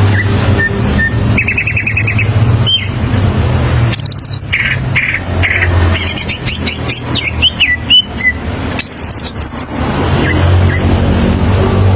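Cucak ijo (green leafbird) singing in varied phrases: rapid chattering trills, high rattles and short slurred whistles that fall in pitch, over a steady low hum.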